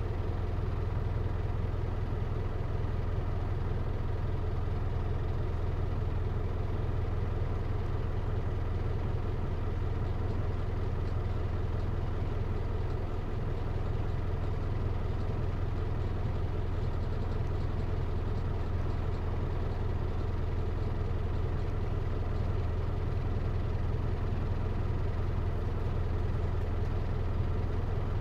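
Hino Liesse RX4JFEA microbus's J05C four-cylinder diesel engine idling steadily, heard from inside the bus.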